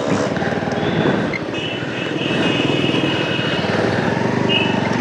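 Motorcycle engine running steadily while riding, with a faint high-pitched tone partway through.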